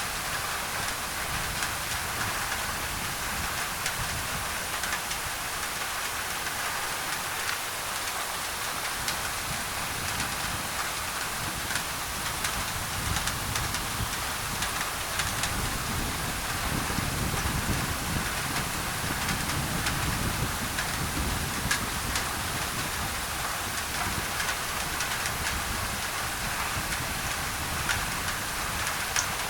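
Steady rain drumming on a thin tin roof, with a dense patter of small drop taps, laid over added white noise. A low rumble swells through the middle and fades again.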